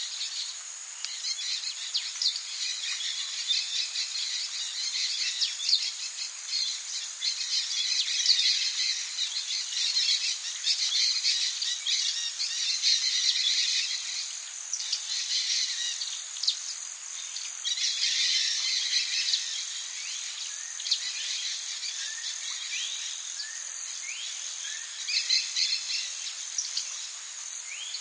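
Tropical rainforest ambience: a steady high insect drone with many birds chirping and calling, and a few short rising calls near the end.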